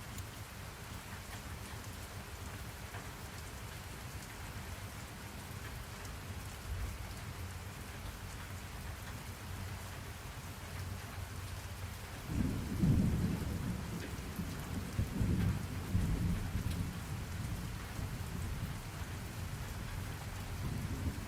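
Steady rain falling, with a low roll of thunder breaking in a little past halfway and rumbling on in swells for several seconds before it eases.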